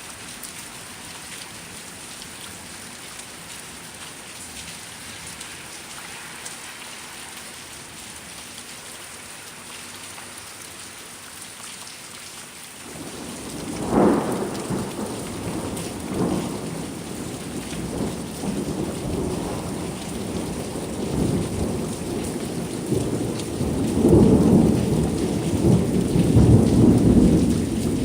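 Steady rain falling, then about halfway through thunder from a lightning strike: a sharp crack followed by long rolling rumbles that grow louder near the end.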